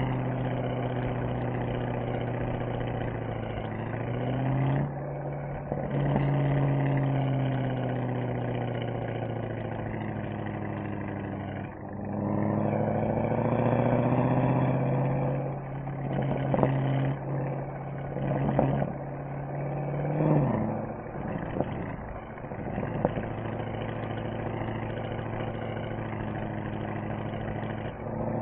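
Mercedes-AMG SL63's V8 engine and exhaust on the move, the pitch rising and falling as the revs change. Revs climb about twelve seconds in, a run of short sharp loud spikes follows, and it settles into steady cruising for the last few seconds.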